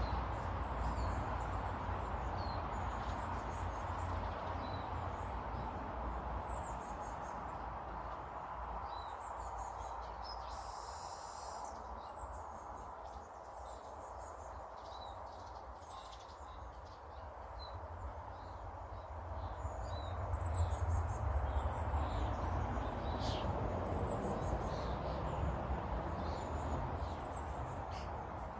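Small garden birds chirping with short, scattered calls, over a steady low background rumble.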